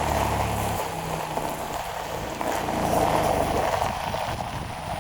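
Toyota Camry driving: steady road and engine noise heard inside the cabin, with a low engine hum that fades under a second in.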